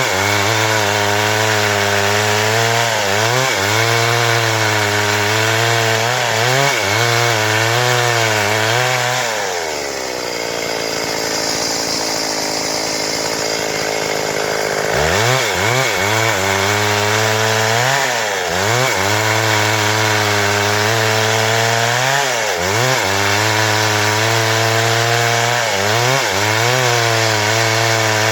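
Stihl MS 382 two-stroke chainsaw ripping a log into boards, its engine pitch wavering and dragging down under load in the cut. Between about 10 and 15 seconds in, it runs briefly at a higher, lighter pitch before bogging back down into the cut.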